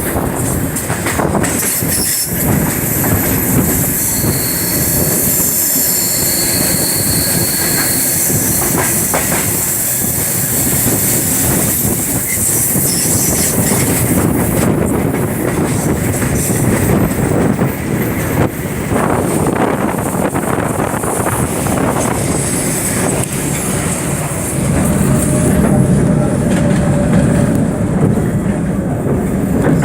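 Cobrasma 1000-series electric commuter train running on the track, heard from aboard: steady rail noise with wheels squealing high on the rails through the first half and the clickety-clack of wheels over rail joints. A deeper rumble grows stronger in the last few seconds.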